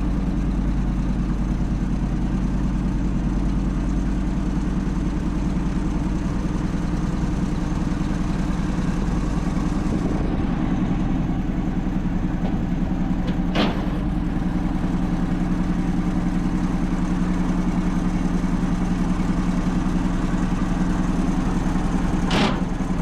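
An engine running steadily at idle with an even low drone, and two sharp clicks about halfway through and near the end.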